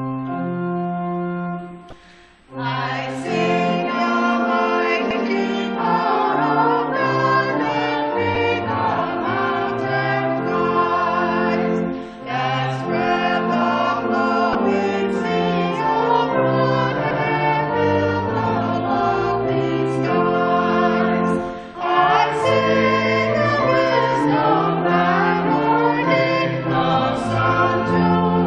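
Choir singing a sacred piece with accompaniment. A held chord opens it, there is a brief break about two seconds in, and then the singing runs on continuously.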